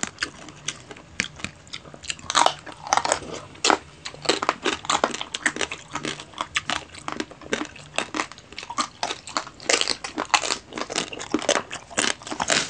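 Crispy lechon (whole roast pig) skin being bitten and chewed: many sharp, irregular crunches in quick succession.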